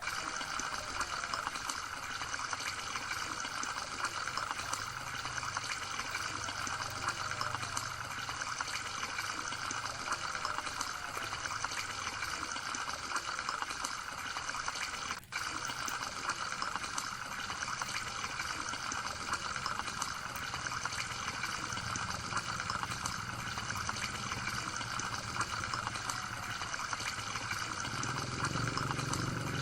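Water trickling steadily, with one brief break about fifteen seconds in.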